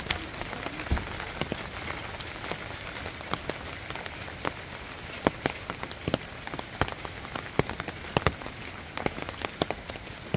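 Steady rain, with many sharp, irregular drop strikes scattered through it, as of heavy drops hitting open umbrellas held overhead.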